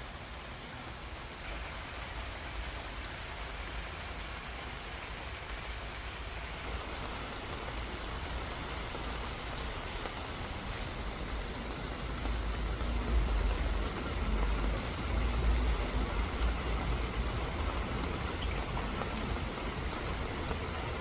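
Steady rain falling, an even hiss, with a low rumble underneath that grows stronger from about halfway through.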